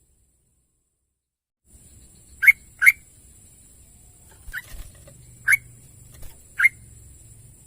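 Yellow-vented bulbul calling in short, sharp notes: a quick pair about two and a half seconds in, then four single notes spaced about a second apart, over a faint steady high hiss. The first second and a half is silent.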